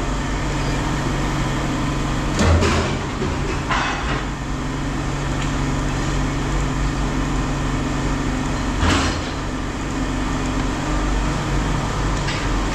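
Scrap metal pieces knocking as they are handled and tossed: a loud knock about two and a half seconds in, another about a second later, and one more near nine seconds. A steady low machine hum runs underneath.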